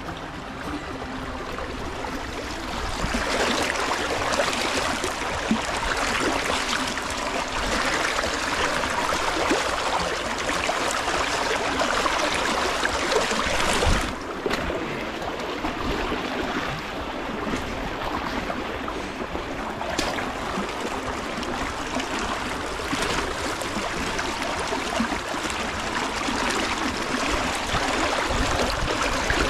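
Swollen river water rushing steadily along the bank. A sharp click comes about halfway through, and the sound drops slightly after it.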